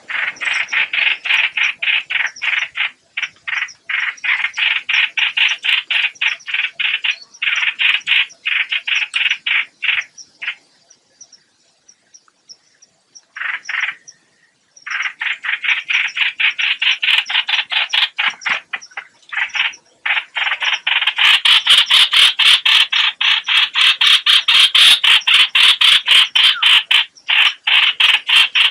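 Lure-call recording of the bird known in Vietnamese as 'hoạch hoạch', used to draw birds to a trap: long runs of rapid, evenly repeated harsh notes, several a second, broken by a pause of a few seconds near the middle and growing denser and louder in the last third.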